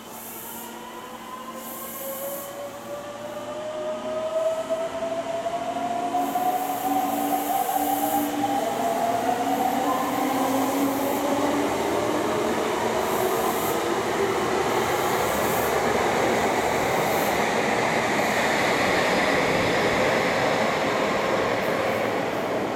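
Meitetsu 200 series electric train pulling out of a subway station: its motors give a whine that rises in pitch as it speeds up, growing louder over the first several seconds. It then settles into a steady loud rumble of wheels on rail.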